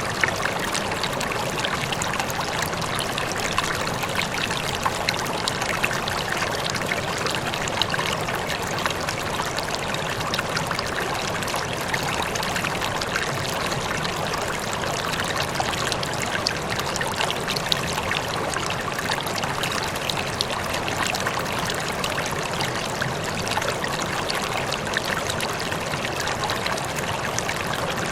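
Running water splashing and trickling steadily, a stream or small fall with many small splashes and no change over time.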